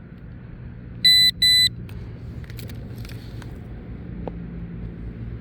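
A metal detector gives two short, high electronic beeps back to back about a second in, signalling metal at the coil. Underneath runs a steady low hum, with a few light clicks and scrapes.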